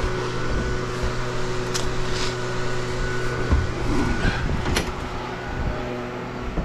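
Engine idling steadily at an even low pitch, with a few light clicks and knocks over it.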